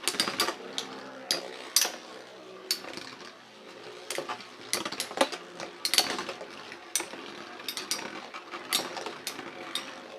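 Metal Fusion Beyblade spinning tops whirring as they battle, with irregular sharp metallic clinks as they collide, about two a second.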